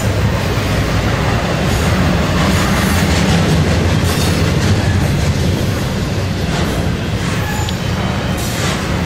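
Double-stack intermodal train's well cars rolling past at close range: a steady, loud rumble of steel wheels on rail, with some clicking over the rail joints and a few faint, brief wheel squeals.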